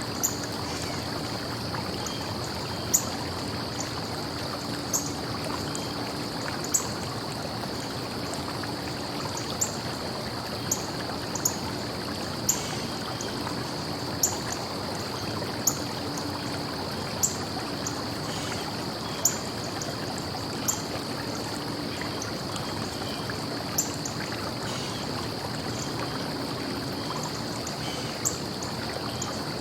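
Stream flowing steadily. Sharp clicks recur every one to two seconds, over a steady high-pitched tone.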